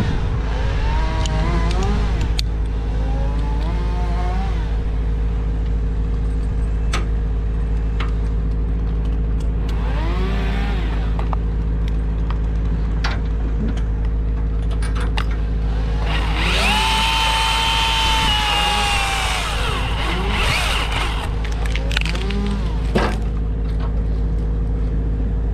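An engine running steadily, with repeated short whines that rise and fall and a longer, stronger whine held for about four seconds past the middle, plus a few sharp clicks.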